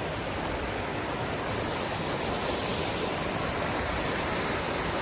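Steady rush of creek water, an even wash of noise that turns a little brighter about a second and a half in.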